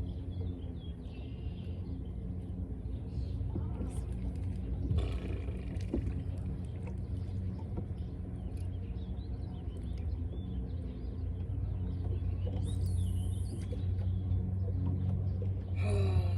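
A steady low motor hum at constant pitch, with birds chirping faintly now and then.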